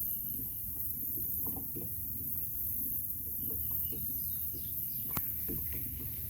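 Outdoor ambience: faint, scattered bird calls over a steady low rumble and a high steady hiss, with a single sharp click about five seconds in.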